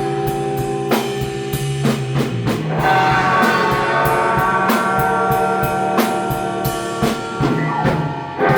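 Live rock band playing: electric guitar holding chords over drums, with cymbal strikes about once a second and a chord change about three seconds in.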